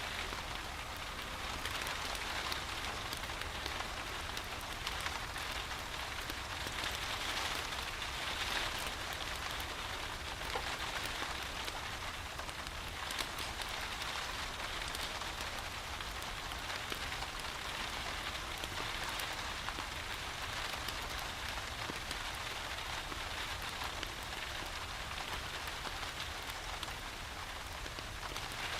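Steady rain, an even rush with scattered small sharp ticks through it.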